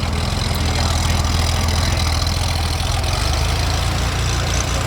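A vehicle engine idling steadily: a low, evenly pulsing rumble.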